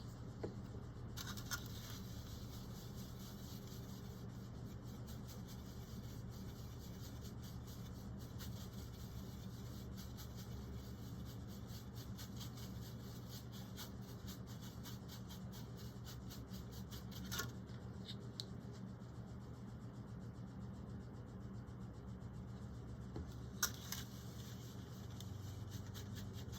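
Faint soft rubbing and scratching of a paintbrush working paint on a palette, with a few light taps, over a steady low hum.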